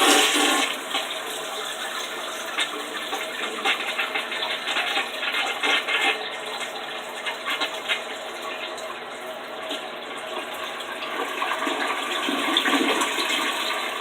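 Household toilet flushing: a loud rush of water as the handle is pressed, settling into a steady swirling drain, then swelling again near the end as the bowl and tank refill.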